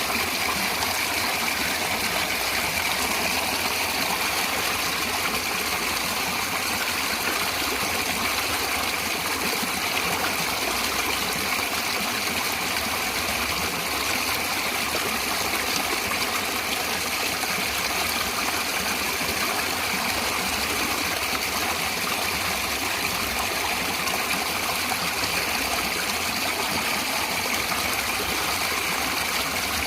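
Natural flowing water, such as a stream, running steadily with an even, unbroken rush.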